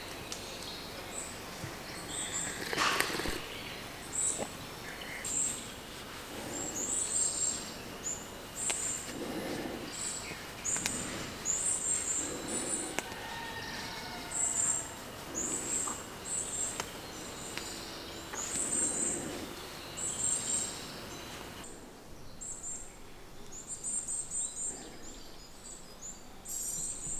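Small birds chirping in short, high-pitched clusters, repeating every second or two.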